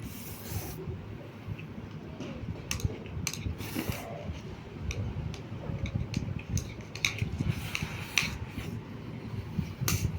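Close-up eating sounds: chewing Current noodles and rice, with many short clicks of a utensil against a plate and a couple of brief swishes.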